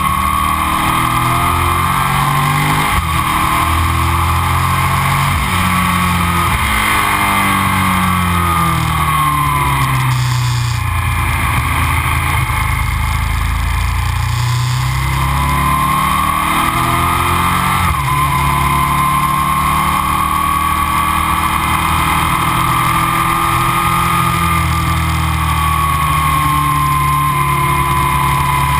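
Aprilia RSV 1000 V-twin with Arrow silencers under way: revs climb and fall through the bends, with an abrupt gear change about two-thirds of the way through, then a steady cruise.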